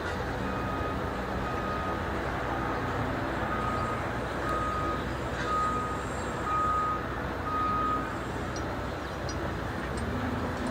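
Steady low noise with a train of about eight short, high electronic beeps at one pitch, roughly one a second, which stop about eight seconds in.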